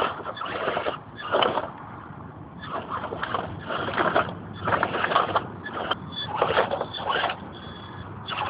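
Axial Honcho RC crawler with a brushless outrunner motor driving in short, irregular bursts of motor and drivetrain noise, about one burst a second.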